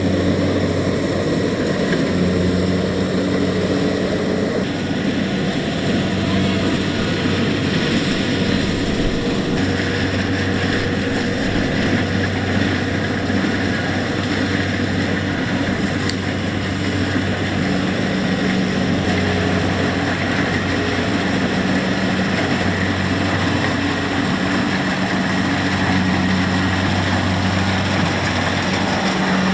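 Kubota DC70X rice combine harvester running steadily under load, its diesel engine holding a constant low pitch that shifts slightly now and then, with the clatter and hiss of the harvesting machinery.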